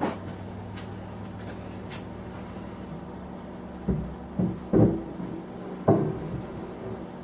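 Heavy cast-iron saddle of a Bridgeport J-head milling machine being set onto the knee's ways: a sharp click at the start, then four dull clunks about four to six seconds in as it is shifted into place.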